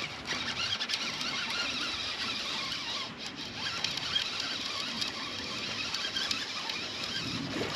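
Fishing reel being cranked steadily, a continuous fine whirring as a small hooked bass is reeled in.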